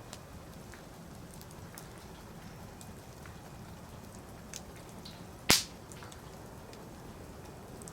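Wood fire in a fire pit, crackling with scattered small ticks over a low hiss, and one sharp loud pop about five and a half seconds in.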